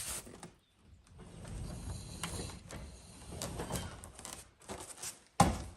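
Rigid foam insulation board rubbing and scraping against a garage door panel as it is handled and set into place. The rubbing is irregular and goes on for a few seconds, with a click at the start and a sharp knock near the end.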